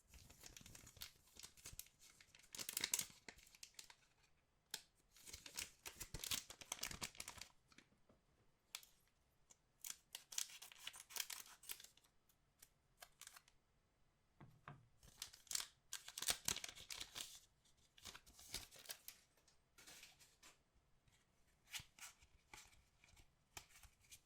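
Trading card box packaging being torn open and crinkled by hand, in a series of short crackling tearing spells, each a second or two long with brief pauses between.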